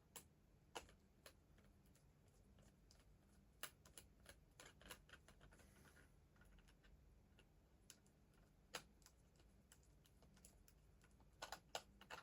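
Faint, scattered clicks and taps of a small plastic toy train being handled, with a quick cluster of clicks near the end.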